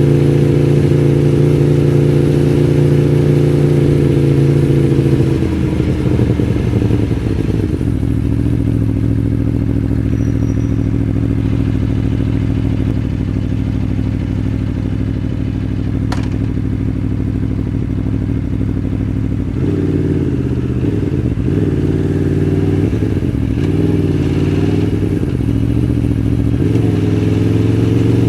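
Aprilia Tuono V4 1100 Factory's 1077 cc V4 engine running at low, steady revs: the note drops lower about six seconds in, holds there, then rises and falls with small throttle changes over the last third.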